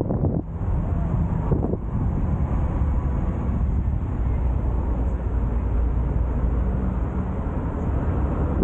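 Car driving along a road: a steady low rumble of engine and tyres, with wind noise on the microphone.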